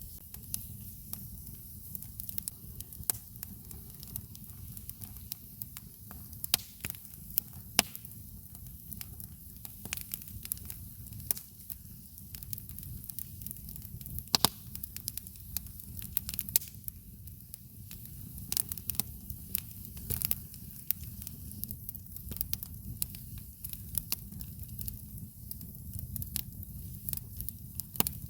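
Campfire wood burning, crackling with frequent sharp pops and snaps over a steady low rumble.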